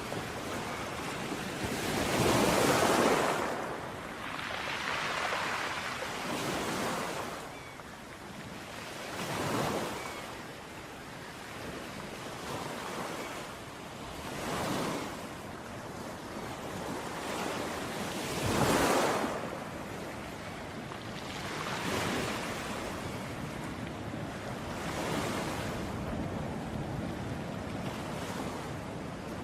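Sea surf breaking and washing onto a beach in repeated surges a few seconds apart. The biggest waves come about two seconds in and again about two-thirds of the way through.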